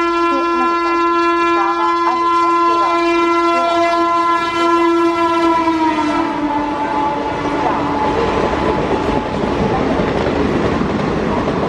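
A train horn blowing one long steady note, its pitch dropping about six seconds in as it passes by, then fading into the loud rushing, clattering noise of a train going past.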